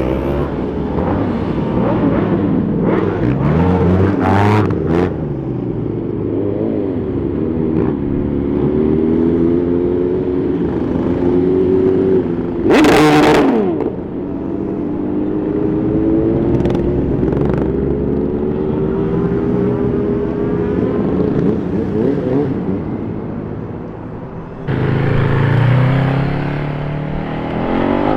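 Superbike engines revving and accelerating, their pitch repeatedly climbing and dropping as they rev and change gear, with several engines overlapping. About halfway through there is a short, loud burst, and near the end a louder engine comes in.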